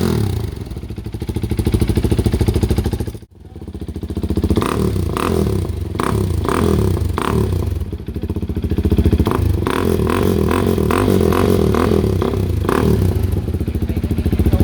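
KTM RC single-cylinder motorcycle with an aftermarket Akrapovic exhaust, revved again and again, its engine note rising and falling. The sound drops out briefly about three seconds in.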